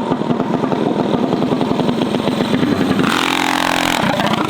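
Small mini bike engines running and revving. About three seconds in there is a louder, harsher stretch of engine noise that lasts about a second.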